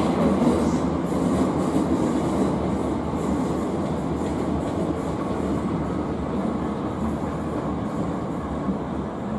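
Electric passenger train running along the platform tracks, a steady rail rumble that slowly fades.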